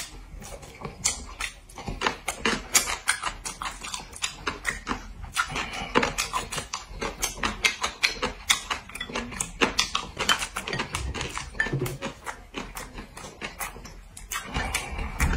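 Close-miked crunchy chewing of crisp pickled vegetable strips, an irregular run of several crunches and clicks a second, mixed with light taps of chopsticks against porcelain bowls and a plate.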